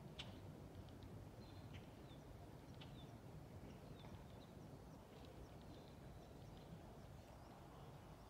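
Near-silent outdoor ambience: a few short, faint, high bird chirps scattered over a steady low rumble.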